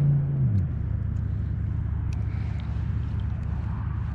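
Steady low rumble of water pouring over a river spillway. A low hum that runs in at the start drops in pitch and fades out about half a second in.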